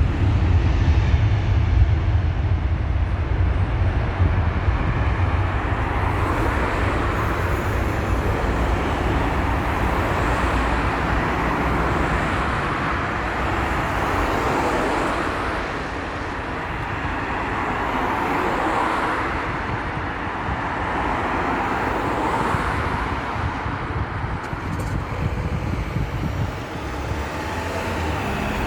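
British Airways Airbus A380-800's four Rolls-Royce Trent 900 jet engines running at take-off, a steady deep rumble with a broad hiss that swells and eases a few times.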